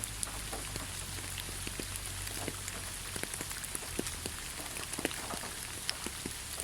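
Steady rain falling on leaves: an even hiss with many separate drops ticking at irregular moments.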